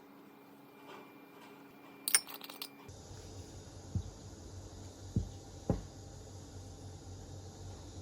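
A few light clinks and taps, then, after a sudden change about three seconds in, a steady high-pitched chorus of summer insects, crickets and katydids, with a few soft low thumps.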